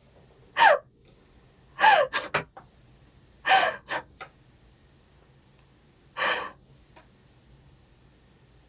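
A person sobbing in gasping bursts, each with a falling pitch. There are four of them, the last about six seconds in, and then stillness.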